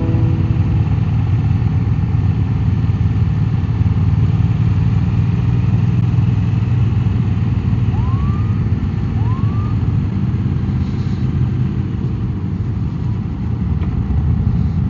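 Motorcycle running steadily at road speed, with engine and wind noise. About eight and nine seconds in come two short rising siren whoops from the police escort.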